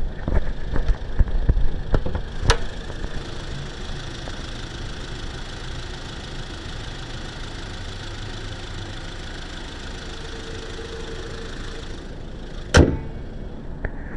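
Car engine idling steadily, with freshly replaced accessory bearings and belt and no squeal. The sound that remains is one the owner puts down to the engine needing a tune-up. A few clicks come in the first seconds, and one sharp, loud knock comes near the end.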